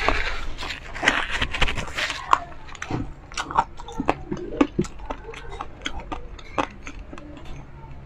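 Close-miked chewing of crispy pork belly: dense crunching and crackling for about the first two seconds, then slower wet chews and lip smacks.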